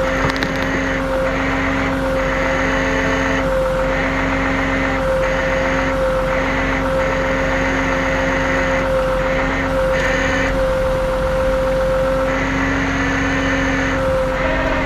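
A tow truck running with a steady mechanical hum and a held whine, with a lower tone and some higher noise cutting in and out every second or so.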